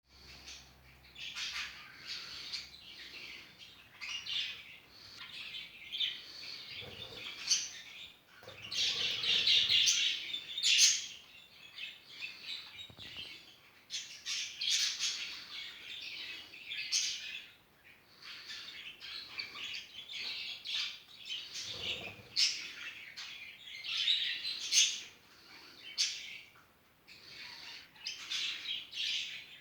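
Budgerigars chattering, a continuous stream of short chirps, warbles and squawks, louder for a few seconds about nine seconds in.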